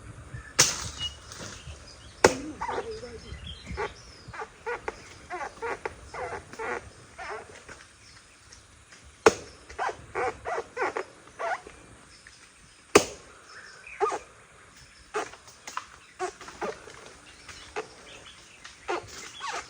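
A tree trunk being chopped by hand with a bladed tool: single sharp strikes a few seconds apart, with runs of quicker, lighter hacks in between.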